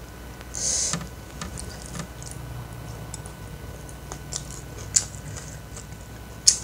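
Close-up eating sounds by hand: chewing with small wet mouth clicks and smacks. There is a brief rustling burst about half a second in, and sharper clicks around five seconds in and near the end.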